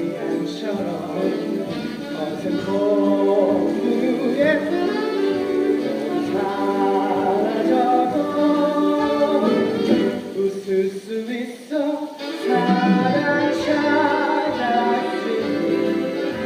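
Live musical-theatre singing over instrumental accompaniment, the voice moving through held, sung notes.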